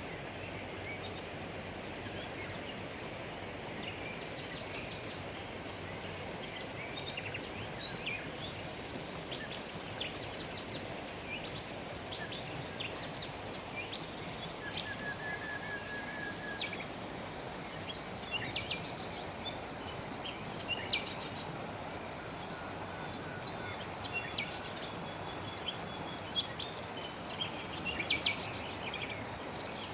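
Steady rush of a flowing river with many small songbirds chirping and singing over it, the calls coming thicker and louder in the second half. A short, even trill sounds about halfway through.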